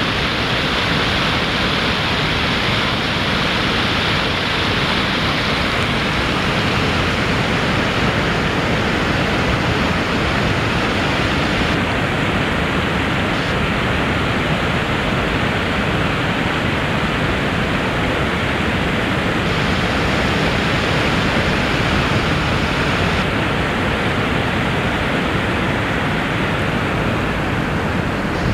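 The Arkansas River running high in flood: a steady rush of fast water with no let-up.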